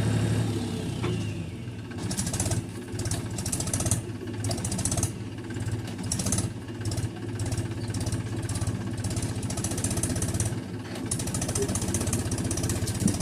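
Mahindra 265 DI tractor's three-cylinder diesel engine running steadily with a rapid clatter, and a high hiss that comes and goes every second or two.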